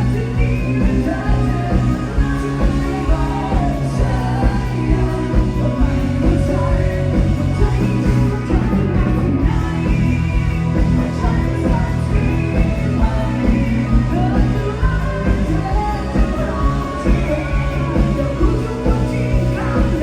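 Live bar band playing loud amplified music with a singer over a steady drum beat and bass.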